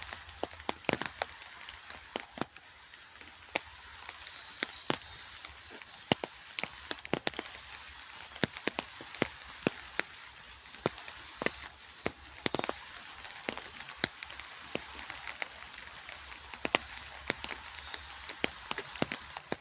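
Rain falling in a park: a steady hiss of rainfall with irregular sharp taps of drops landing close by.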